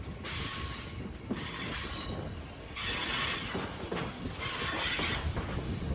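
Rocky Mountaineer passenger train running along the track, heard from on board: a steady low rumble of wheels on rail, with three or four rushes of hiss about a second long each.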